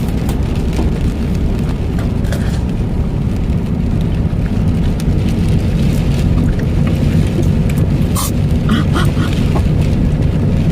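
Steady low rumble of a car's running engine heard inside the cabin, with a few light rustles and clicks near the end.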